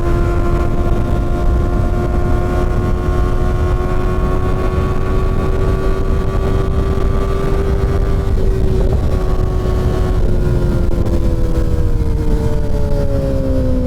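Kawasaki Ninja ZX-6R's inline-four engine pulling at a steady cruise over heavy wind rush. The engine note creeps slightly higher, then drops away over the last few seconds.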